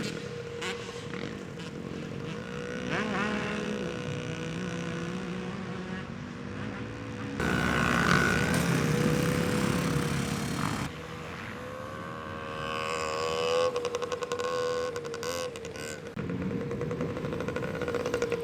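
Dirt bike engines running and revving, the engine note rising and falling. A louder, rougher stretch cuts in about seven seconds in and cuts out about three and a half seconds later.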